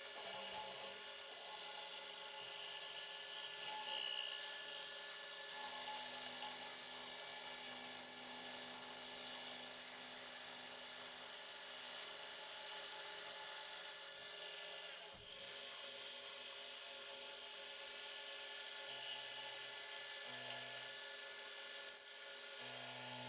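Milling machine running steadily, its cutter machining a groove in a steel plate, with a constant whine of several steady tones.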